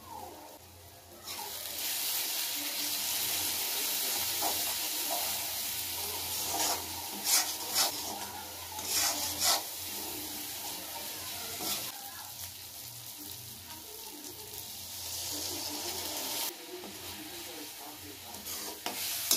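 Tomato-onion masala sizzling in a steel kadhai as a steel spoon stirs it. The sizzle starts about a second in, with several sharp scrapes of the spoon against the pan near the middle.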